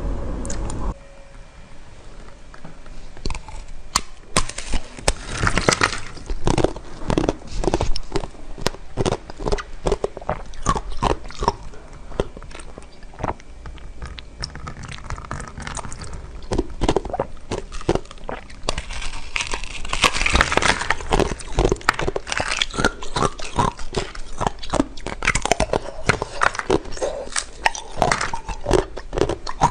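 Close-miked chewing and biting of a frozen dessert: a dense, irregular run of crisp crackles and mouth clicks, busiest about two-thirds of the way through.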